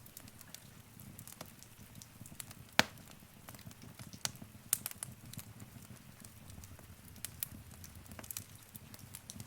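Wood fire crackling in a fireplace, with a low steady rumble of flame under irregular sharp pops and snaps. The loudest pop comes just before 3 seconds in, and a quick cluster follows around 5 seconds.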